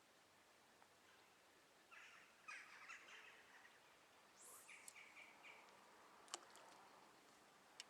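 Faint harsh bird calls, a few short ragged ones, over near silence, with two sharp clicks near the end.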